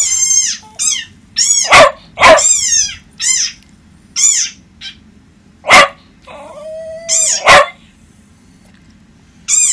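Small dog barking in a rapid string of sharp, high-pitched yips, with a short held note a little before seven seconds in. A pause of nearly two seconds follows, then one more bark near the end.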